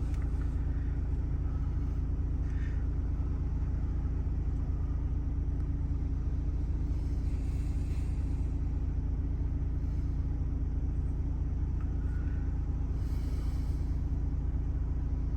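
2018 Ford Transit's 2.0-litre Duratorq diesel engine running steadily, a low even hum.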